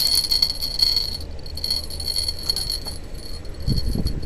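A steady high-pitched buzz with a fast, rattling pulse, strongest in the first second, over a low rumble of wind on the microphone; a few low thumps come near the end.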